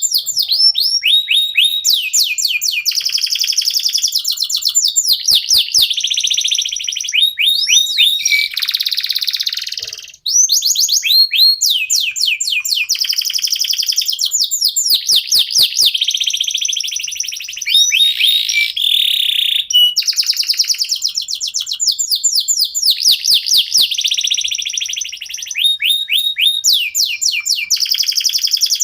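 Domestic canary singing a long, nearly unbroken song: fast runs of repeated high sweeping notes alternating with buzzy trills, pausing briefly about ten seconds in.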